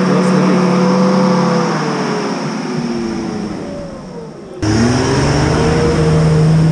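Off-road competition car's engine revving hard under load as it climbs past on a muddy track, its pitch sagging slowly and then rising again. The sound changes abruptly about four and a half seconds in.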